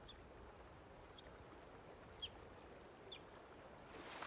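A young river otter giving short, high chirping calls, four of them about a second apart, faint over a low steady background noise: the cries of a lost, injured youngster left behind by its family.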